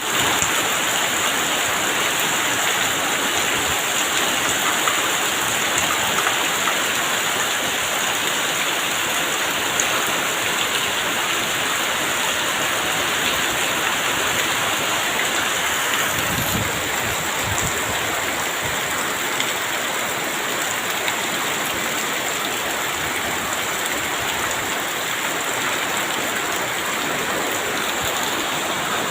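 Heavy rain pouring down steadily, a dense even hiss of falling water, with a brief low rumble about halfway through.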